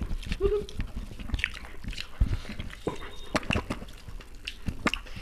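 Two people chewing mouthfuls of chicken biryani by hand, close to a tabletop microphone: irregular chewing with sharp mouth clicks and smacks, and a brief hummed sound about half a second in.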